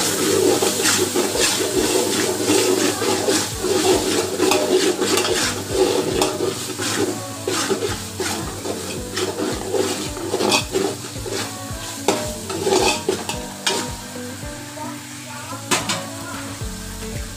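Onions and ginger-garlic paste sizzling in hot oil in a metal pot while a spoon stirs and scrapes them, with frequent clicks of the spoon against the pot. The stirring thins out over the last few seconds, leaving mostly the frying sizzle.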